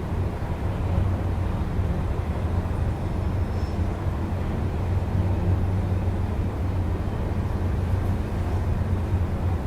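Steady low rumble of city traffic heard through an open window.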